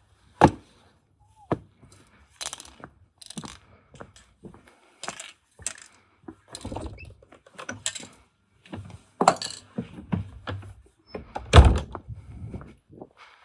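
Metal tools and parts being handled and set down during car repair: a string of irregular knocks, clinks and clatters, with one heavy thunk a little before the end.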